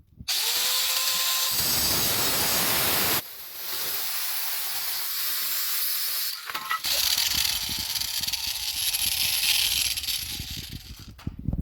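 A power tool cutting through the metal EGR tubing, in three long runs. Each run is a loud, steady hiss, and a rising whine can be heard as the motor spins up at the start.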